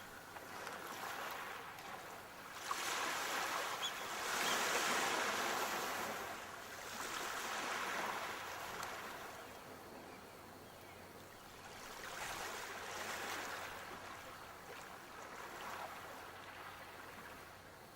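Sea waves breaking and washing up the shore, the surf swelling and fading every few seconds as each wave comes in, loudest about four to five seconds in.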